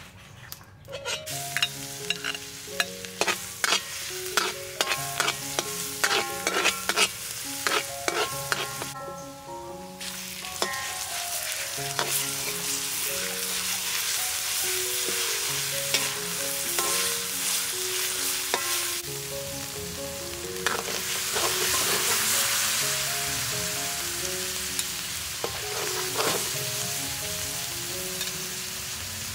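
Minced meat and garlic sizzling in a hot steel wok, with a metal ladle scraping and clinking against the wok as it is stirred. The clinks are thick in the first few seconds. After that the sizzle settles into a steady hiss that swells about two-thirds of the way through.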